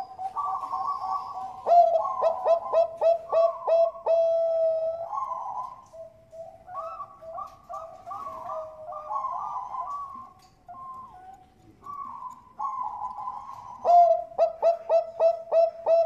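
Bangkok-strain zebra dove (perkutut) song. Runs of short repeated cooing notes, about three a second, come about two seconds in and again near the end, with softer rolling coos between them.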